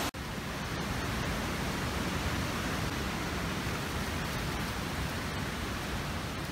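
Waterfall rushing: a steady roar of falling water, cutting out for an instant just after the start.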